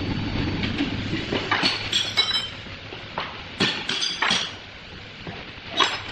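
A low steady hum, then a series of sharp clinks and knocks with a short ring, coming in quick groups of two or three.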